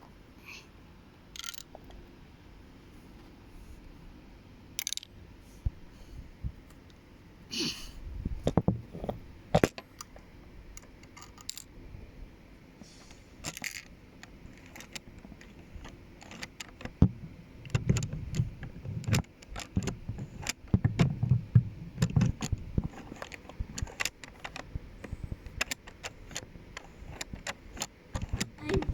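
Plastic Lego pieces clicking and rattling as they are handled, in irregular clicks that grow busier in the second half, with a few heavier knocks.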